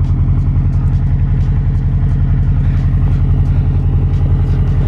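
Subaru WRX STI's turbocharged flat-four boxer engine idling steadily, a loud, even low pulsing.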